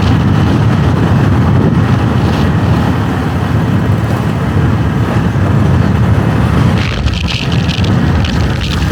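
Motorbike riding along a road: a loud, steady low rumble of wind on the microphone mixed with engine and road noise. A brief higher hiss comes about seven seconds in.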